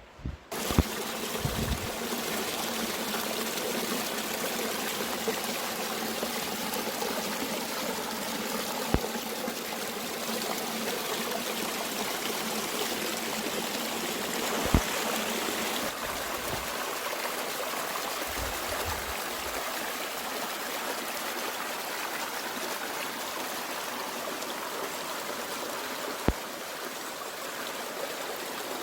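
Mountain stream running steadily, a constant rush of water that starts abruptly about half a second in, with a few sharp clicks over it.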